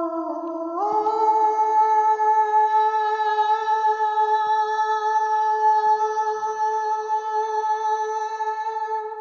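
A single voice humming or singing a long held note: it starts on a lower pitch, slides up about a second in, then holds the higher note very steadily for about eight seconds before fading at the end.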